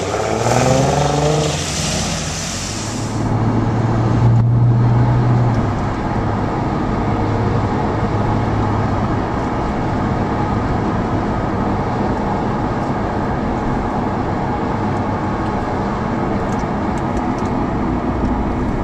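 Car engine accelerating, its pitch rising in the first two seconds with a loud rushing hiss that stops about three seconds in, then settling into a steady low drone with road noise as the car drives on.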